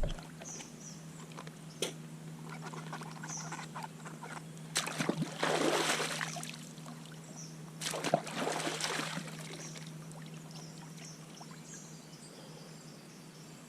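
Water splashing and trickling in two short bursts, about five and eight seconds in, with a faint steady hum underneath.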